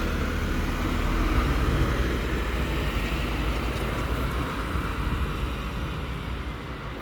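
Cabin noise on the top deck of a Scania N280UD CNG double-decker bus: a steady low engine and road rumble with a hiss above it, slowly getting quieter.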